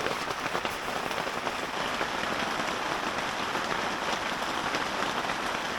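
Heavy rain drumming steadily on a tarp roof, heard from inside the tent: a dense hiss of countless drop impacts.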